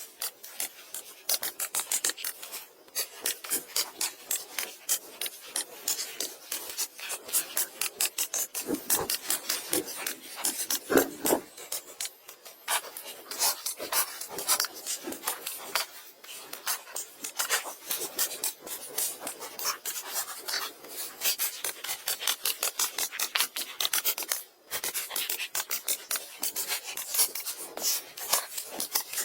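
Rapid, irregular rasping and scraping strokes, like rough material being worked by hand, with a couple of heavier knocks partway through.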